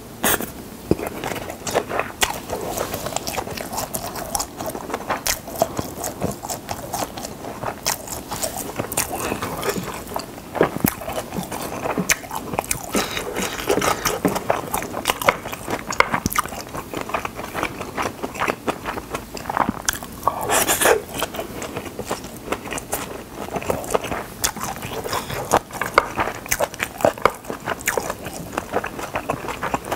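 Close-miked chewing and mouth sounds of Spam kimchi fried rice being eaten, in a dense run of irregular smacks and clicks. Now and then wooden chopsticks scrape the plate as more rice is scooped up.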